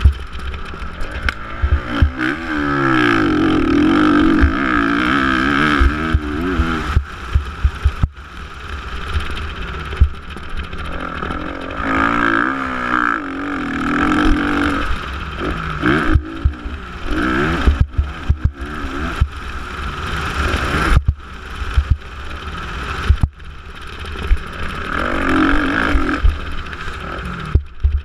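Motocross bike engines revving hard, their pitch rising and falling again and again as the throttle opens and closes, with several louder surges. Frequent low thumps and knocks run underneath.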